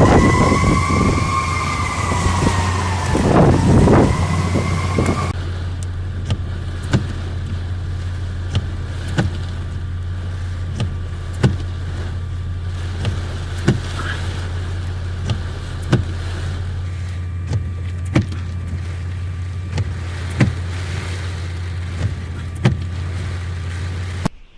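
Emergency-vehicle siren wailing, its pitch rising and falling, for about the first five seconds, then cutting off abruptly. After that comes a steady low hum with a sharp tick repeating about every three-quarters of a second.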